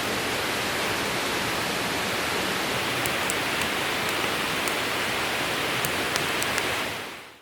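Steady rushing noise with a few faint sharp ticks; it fades out near the end.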